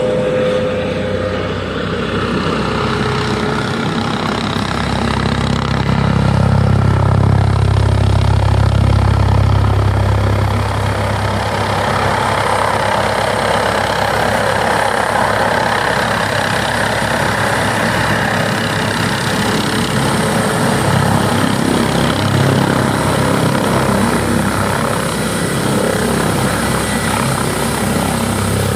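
Airbus H145 twin-turbine helicopter coming in to land, its rotor and engines running continuously, loudest about six to ten seconds in.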